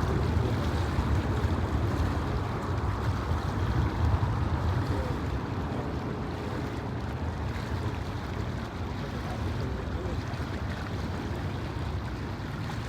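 Low, steady rumble of a departing jet airliner's engines, slowly fading as the aircraft climbs away.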